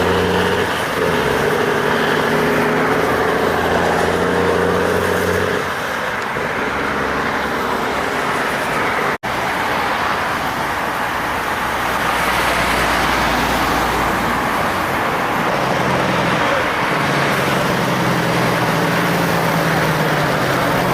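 Heavy diesel trucks passing in traffic: one truck's engine drones steadily at first, then gives way to tyre and road noise. The sound cuts out for an instant about nine seconds in, a low rumble follows, and another truck engine comes through near the end.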